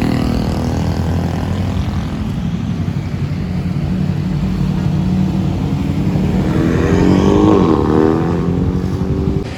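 Vehicle engines running at low revs, with one vehicle passing close about seven seconds in, its engine note rising and then dropping as it goes by.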